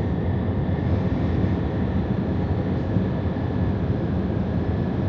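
Freightliner Cascadia semi truck driving at highway speed, heard from inside the cab: a steady drone of engine and road noise.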